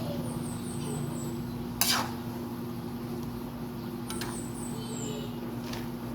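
A metal utensil knocks once against a cooking pot about two seconds in, over a steady low hum. Two short runs of faint high chirps come early and again near the end.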